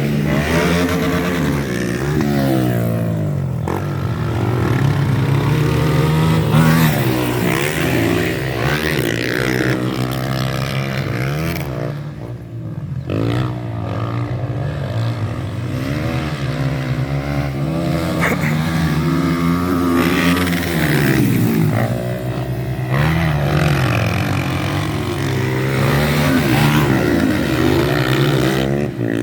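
Motocross bikes running laps of a dirt track, engines revving up and dropping back over and over as the riders accelerate, shift and brake, with several bikes overlapping; the sound drops away briefly twice, about twelve seconds in and again near twenty-two seconds.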